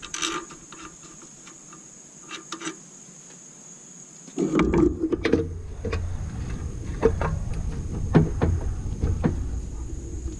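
Hand tools and metal engine parts clicking and knocking as they are handled. The knocks are sparse at first, then from about four seconds in they come thick, over a louder low rumble.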